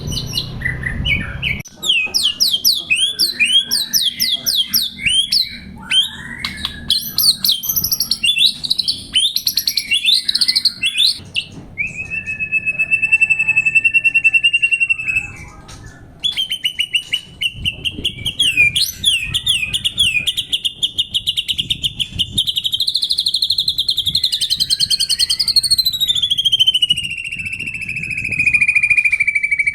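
White-rumped shama (murai batu) singing: quick, varied whistled phrases, then long fast trills held at one pitch. Near the end a trill climbs and then slowly falls.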